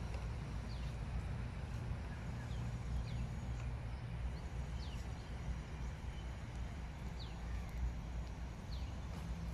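Birds calling with short, falling chirps, one every second or so, over a steady low rumble.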